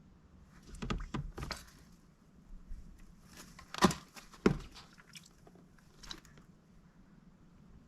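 Mallard duck's bill working at food and its bowl: short runs of crunching clicks, with two sharp knocks about four seconds in.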